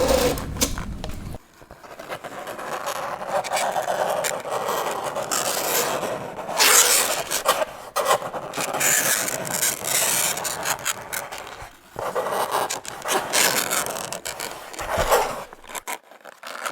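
Fingernails scraping across a chalkboard in long, uneven strokes, with a few short breaks between them.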